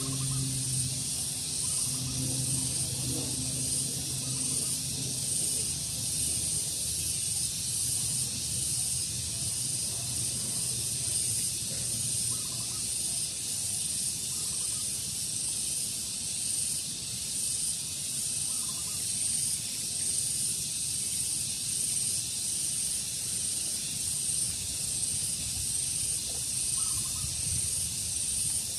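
Daytime outdoor ambience: a steady high hiss with a few short, faint bird calls. A low hum is heard through the first several seconds, then fades.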